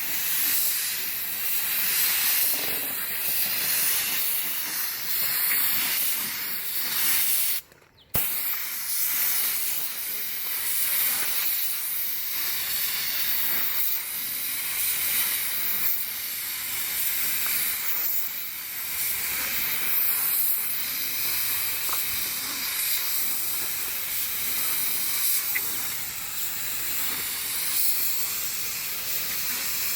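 Compressed-air paint spray gun hissing steadily as it sprays primer. The spray stops for a moment about eight seconds in, then starts again and runs on evenly.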